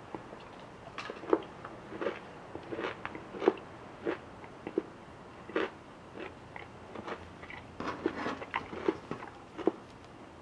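Someone chewing a Hershey's chocolate nugget close to the microphone, with irregular crunches, one or two a second.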